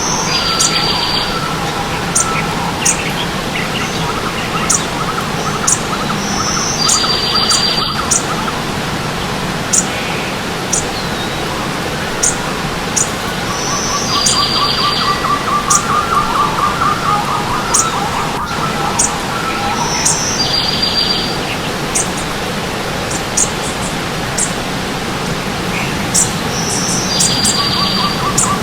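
Several birds singing and chirping over the steady rush of stream water. One song, a short high whistle followed by a buzzy trill, repeats about every six and a half seconds, with sharp high chirps and lower warbling trills between.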